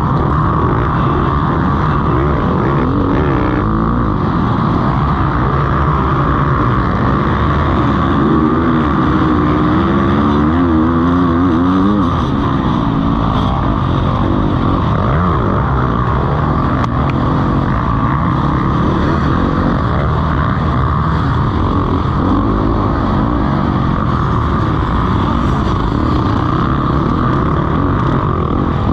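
Motocross bikes racing, their engines revving up and down through the gears as they ride the course.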